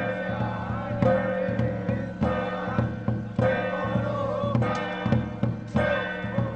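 Traditional temple ritual music: drum and percussion strikes about every second and a quarter, over sustained pitched instruments carrying a wavering melody.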